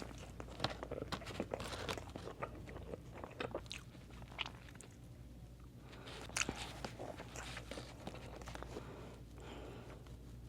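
Close-miked mukbang eating: bites into crunchy Wendy's fast food, then chewing with many sharp crackling crunches that thin out around the middle and pick up again.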